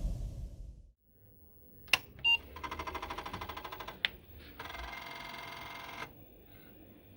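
Apple II europlus switched on after its power supply repair: a click, a short beep, then a fast rattling of a floppy drive head, another click and a steady drive hum that stops about six seconds in.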